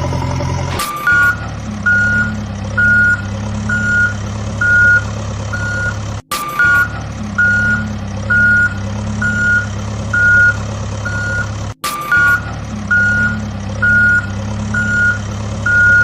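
Truck reversing alarm beeping about once a second over a steady engine drone. The sound cuts out for a moment and starts over twice, each time with a short falling tone before the beeps resume, like a looped recording.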